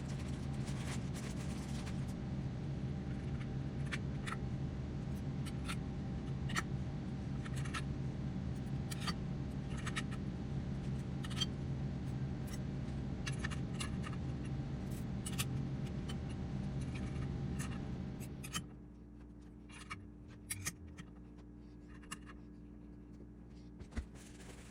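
A steady machine hum with scraping and sharp clicks over it, which stops about eighteen seconds in; after that only scattered light clicks and taps.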